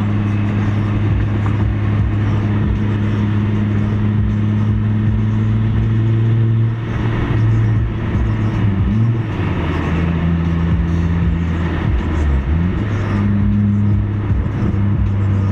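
Car engine and road noise heard from inside the cabin at highway speed: a steady engine drone whose pitch drops and rises again a couple of times, around the middle and near the end, as the engine speed changes.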